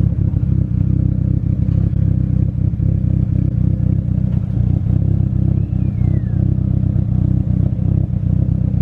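Mitsubishi Lancer Evolution X's turbocharged four-cylinder idling steadily with a choppy, uneven beat. It has a misfire that new spark plugs have not cured, which the owner puts down to the injectors.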